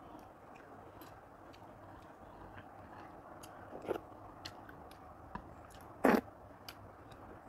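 Close-miked eating sounds of rice and curry eaten by hand: soft chewing with small wet clicks of the mouth, a short smack about four seconds in, and a louder wet smack just after six seconds as curry is sucked off the fingers.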